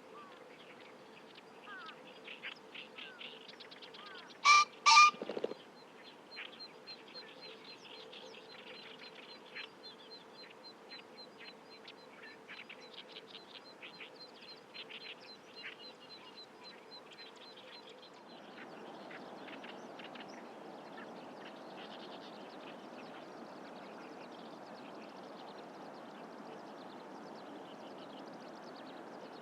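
Male green pheasant giving its loud two-note crow, two harsh calls about half a second apart, followed at once by a short low wing-whirr, the territorial display of the breeding season. Small songbirds chirp faintly around it, and a steady rushing noise takes over about two-thirds of the way through.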